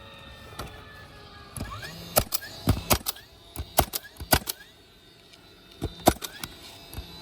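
Irregular sharp clicks and knocks, bunched mostly in the middle with a second cluster near the end, with a few short whirs that rise in pitch.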